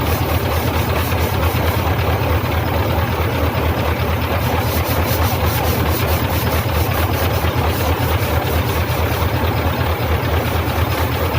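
An engine running steadily at idle with a fast, even low throb.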